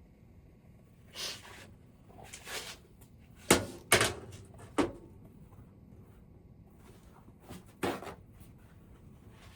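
Caulking gun being handled: a few sharp clicks and knocks, the loudest two about three and a half and four seconds in, with softer scraping rustles before them and one more knock near the end.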